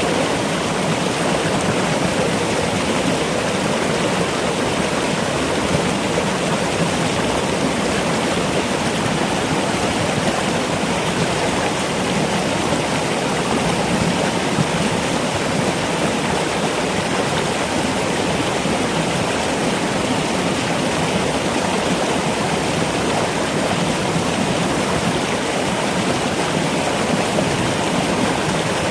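Steady rushing water with an even, unchanging hiss and no other sound standing out.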